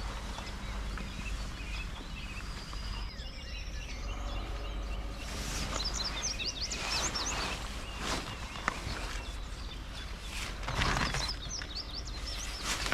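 Small birds chirping in short, quick clusters, with one longer rising whistle a few seconds in. Underneath is a steady low rumble, with a few soft knocks and rustles.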